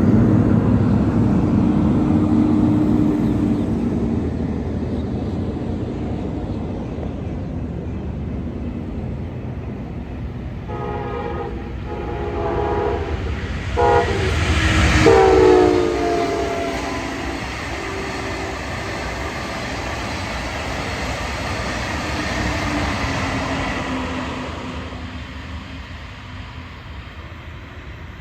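A train passes, sounding its horn in several blasts with the last one long; the horn's pitch drops as the train goes by at its loudest. The rumble of the passing train then fades away.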